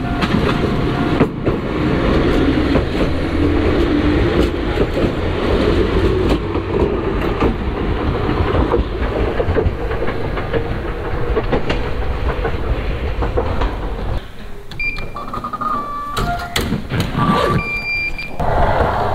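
Toyama Chihō Railway electric train running: a steady rumble with a motor tone that slowly rises in pitch. About fourteen seconds in it grows quieter and a few short high tones sound.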